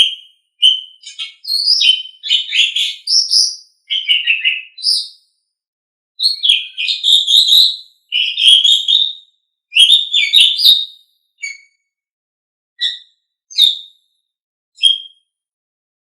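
Asian pied starling (jalak suren) singing: a run of loud chattering, whistled phrases, thinning after about eleven seconds to four short separate notes, then stopping.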